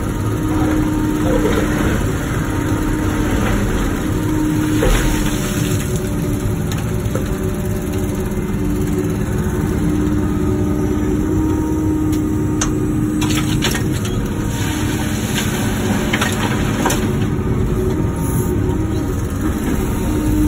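Wacker Neuson ET145 excavator's diesel engine running steadily while it digs, with scattered knocks and scrapes from the bucket working dirt and rock, clustered about five seconds in, around the middle and near the end.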